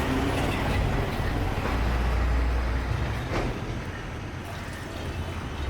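Road traffic going by, with the low rumble of a passing vehicle that swells about two seconds in and then fades.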